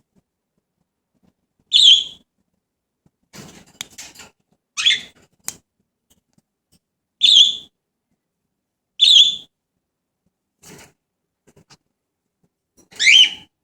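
Pet parrot in a cage giving five loud, short calls spread over the stretch, with faint scratchy clicks and rattles between them.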